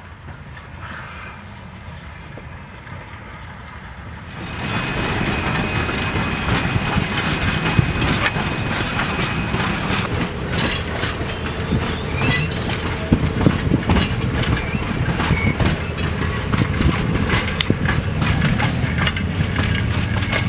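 A steam-hauled train of passenger carriages rolling past close by, the wheels clattering over the rail joints in a dense run of clicks. It starts as a low distant rumble and gets suddenly louder about four seconds in, with a thin steady squeal for a few seconds after that.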